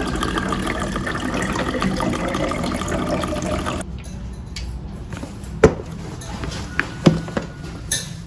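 Liquid running into a container for a few seconds and stopping suddenly, followed by a few separate knocks and clinks like dishes being handled.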